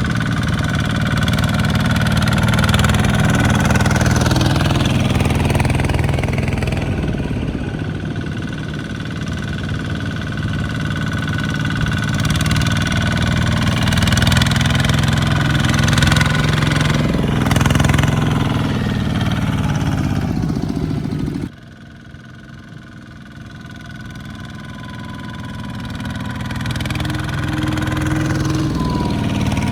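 Small farm tractor engines running steadily and loudly, the level rising and falling as they work. About two-thirds of the way through the sound drops suddenly, then builds back up.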